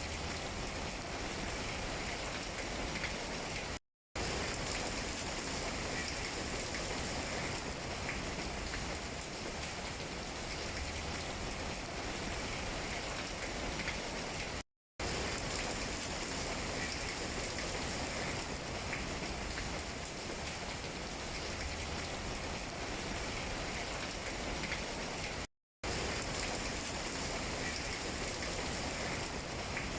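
Steady rain falling on tree leaves, an even patter with no pauses in its intensity. The sound cuts out to silence briefly three times.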